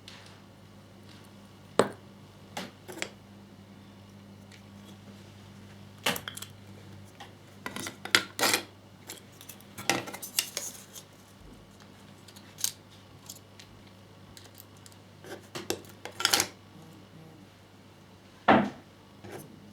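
Irregular clicks and clinks of a small screwdriver, tiny screws and hard plastic model parts being picked up, set down and handled on a worktop, over a faint steady hum.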